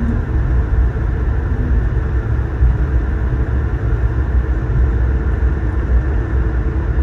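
Steady low rumble of an Airbus A220-300's cabin noise, engine and airflow, heard from a passenger seat.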